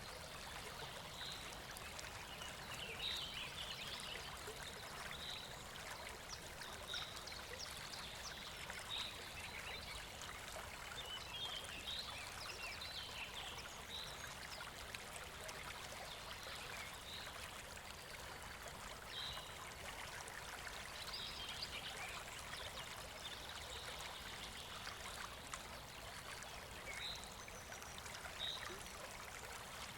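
Steady rushing of flowing river water, with a short high chirp recurring every one to three seconds.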